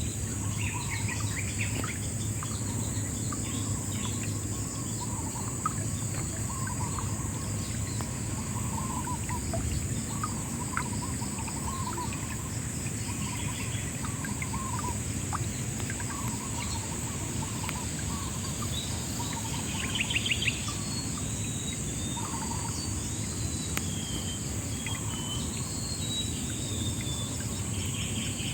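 Riverside ambience: insects keep up a steady high-pitched trill while birds chirp over it again and again, with a series of short high whistles in the second half. Underneath lies a low, steady rush of flowing water.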